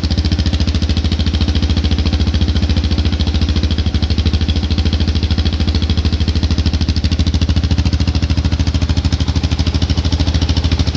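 Suzuki DR650's single-cylinder four-stroke engine idling steadily through an aftermarket replica Akrapovic slip-on muffler with its baffle removed, giving a loud, even, pulsing exhaust note.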